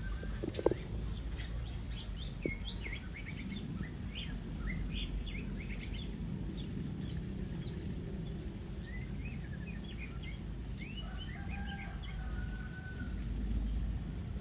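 White-rumped shama calling in quick runs of short chirps and whistles, in two spells, with a longer held whistle near the end, over a steady low background rumble. A sharp click comes just after the start.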